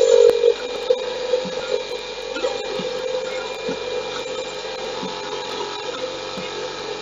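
A saw cutting through a wooden subwoofer-box panel, a steady rasping run with a louder stretch in the first half-second.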